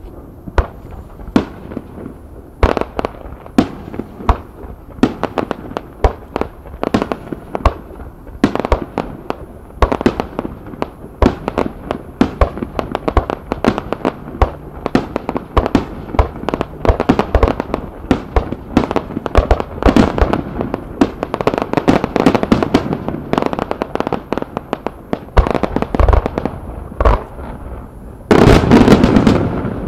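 Aerial fireworks shells bursting one after another in sharp bangs, coming thicker after the first few seconds, with a loud unbroken volley near the end.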